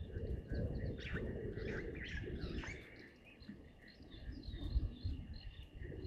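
Several birds chirping and calling over a low background rumble, with the busiest run of calls about one to three seconds in.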